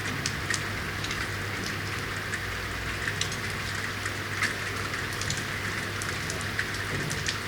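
Steady rainfall: an even hiss with frequent sharp ticks of individual drops hitting hard surfaces, over a low steady hum.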